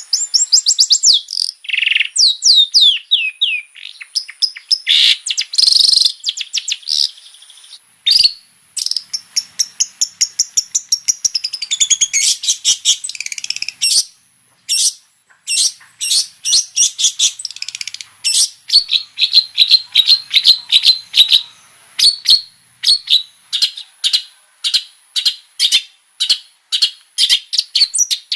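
Long-tailed shrike (cendet) singing a loud, varied song of rapid, sharp repeated chirps and falling whistled notes, full of imitated calls of other birds.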